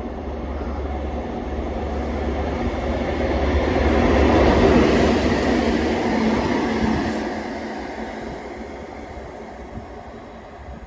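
Rail Adventure Class 43 HST diesel power cars passing through the station. The sound builds to a peak about four to five seconds in and then fades away, with a low engine hum that drops off about seven seconds in.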